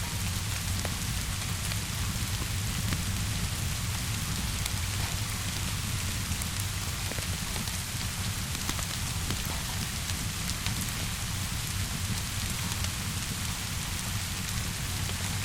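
Steady rainfall, an even hiss with a low rumble underneath, with faint scattered crackles from a fire throughout.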